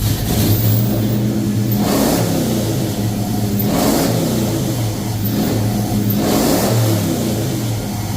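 1970 Chevy C10 pickup's fuel-injected engine running on its first start-up. The revs rise and fall three times, at about two, four and six and a half seconds in, and drop back to a fast idle between them: the engine won't yet settle to a normal idle.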